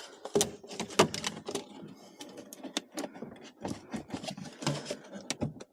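Irregular clicks, knocks and light rattling of hardware being handled as a diesel heater and its fittings are positioned by hand. The sharpest knocks fall in the first second.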